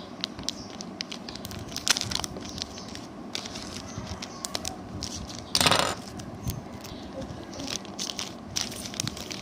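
Plastic snack packaging crinkling and crackling as it is handled and opened by hand, with many small sharp crackles and one short louder rip a little past halfway.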